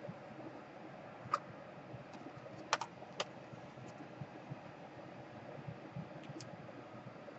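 A few light, sharp plastic clicks and taps from laptop parts being handled during reassembly, over a faint steady hum. There is a single click about a second in, a quick cluster near the middle, and one more near the end.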